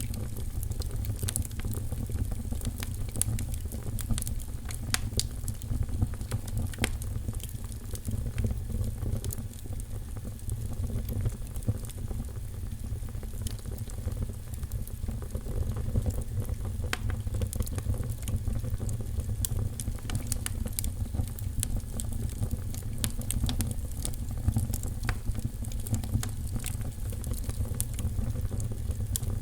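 Wood fire crackling in a fireplace: a steady low rumble with frequent small sharp pops and snaps scattered throughout.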